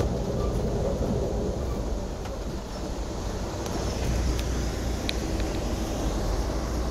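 Steady low rumble of a passenger train running at speed, heard from inside the car, with a few faint clicks about five seconds in.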